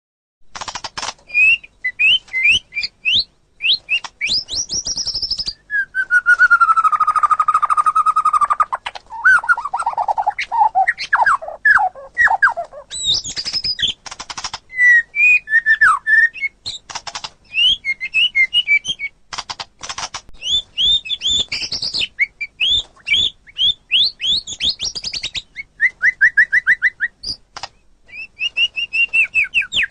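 White-rumped shama (murai batu) singing a fast, varied song of clear whistles, trills and sharp chipping notes, with a longer, lower rolling phrase about six seconds in.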